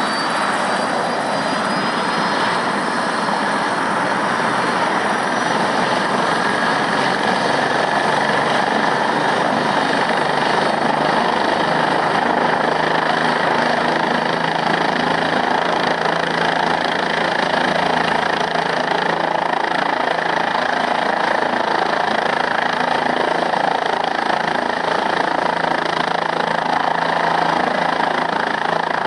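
Helicopter running close by: a loud, steady roar of rotor and engine, with a faint high whine that rises in pitch over the first few seconds.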